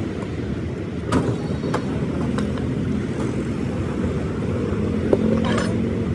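Steady low rumble of vehicle engines and road traffic, broken by a few short sharp knocks.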